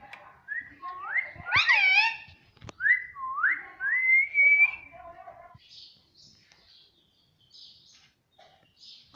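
Indian ringneck parrot whistling: a string of rising, whistled notes over the first five seconds, followed by soft, scratchy chirps.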